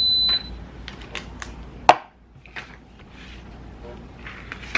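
Midea electric pressure cooker's control panel ending a high beep, then a few light clicks and taps, with one sharp louder click about two seconds in.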